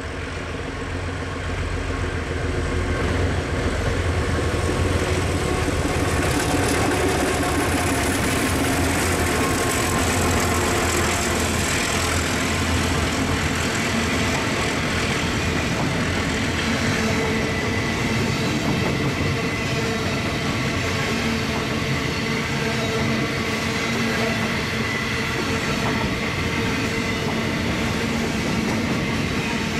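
Diesel locomotives working hard under load as they pass, then a long train of loaded containerised coal wagons rolling by, steel wheels clicking on the rails. It grows louder over the first few seconds and then holds steady.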